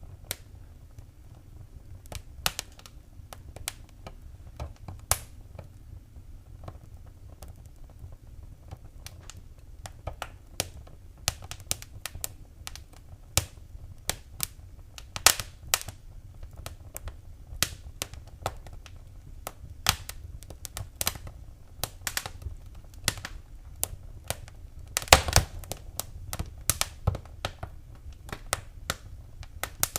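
Wood fire crackling in a fireplace: irregular sharp pops and snaps over a low steady rumble, with a cluster of louder pops about 25 seconds in.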